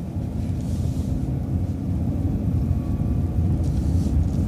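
Steady low rumble of a vehicle's engine and road noise, heard from inside the vehicle as it drives.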